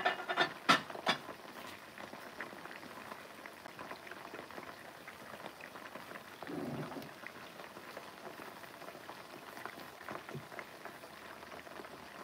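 Chicken pieces deep-frying in hot oil: steady sizzling and bubbling with fine crackles throughout, and a few loud sharp pops in the first second.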